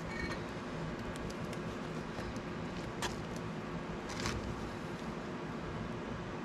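Steady rushing noise with a faint low hum, and two short metallic clinks about three and four seconds in.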